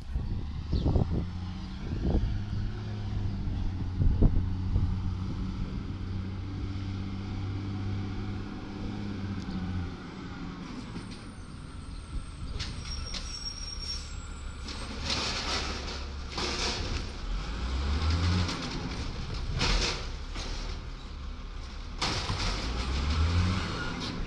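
Garbage truck working: its diesel engine holds a steady hum with a few sharp clanks in the first four seconds. In the second half come bursts of air hissing, with the engine speeding up briefly twice.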